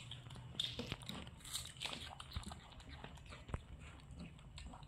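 Faint crunching and chewing of crisp green apple pieces being bitten and eaten, a scatter of small crackles and clicks.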